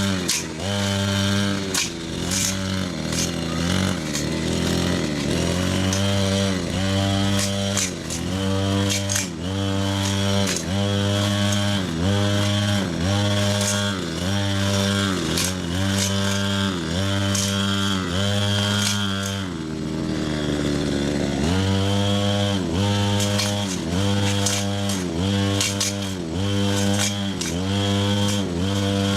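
A motor-driven power tool running, its pitch sagging and recovering about once a second as it takes load.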